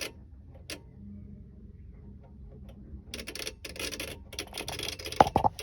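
Electrical fault noise from a Renault truck's dashboard: a low hum with clicks, then a rapid ticking and crackling from about three seconds in, and a louder knock near the end. It is the sound the truck makes when its electrical fault cuts the power.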